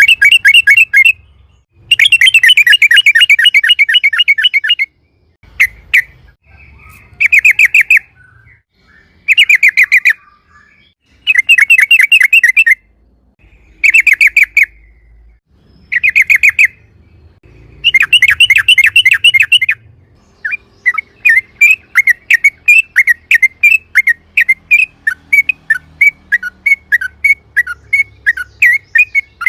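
Yellow-vented bulbul (trucukan) singing loud, bubbling phrases of rapid notes, one every couple of seconds. After about twenty seconds it switches to a long run of sharp single notes, about three a second. This is the long rolling 'ropel' song that keepers play to lure other trucukan to answer.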